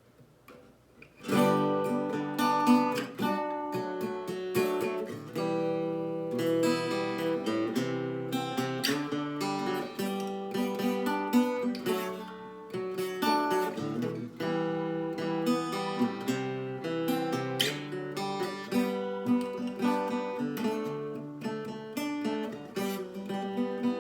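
Acoustic guitar playing the chord progression G, D, E minor, C, starting about a second in after a short pause.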